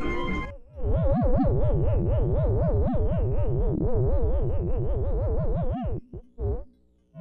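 Electronic synthesizer tone warbling rapidly up and down in pitch, several tones wobbling together, stopping about six seconds in after a short final blip.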